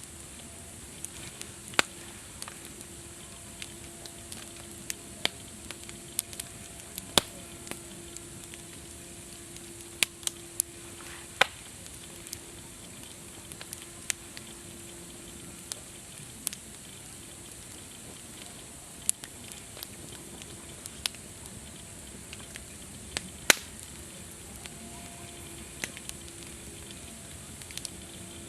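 Campfire of burning wood: a steady hiss with irregular sharp pops and crackles, a few of them much louder than the rest. A faint low hum comes and goes underneath.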